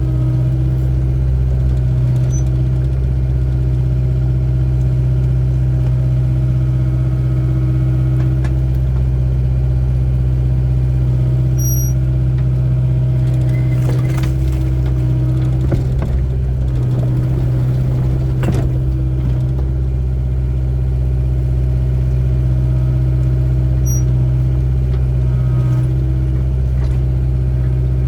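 Excavator diesel engine running steadily with a deep, even hum while digging, with a few short clunks about halfway through.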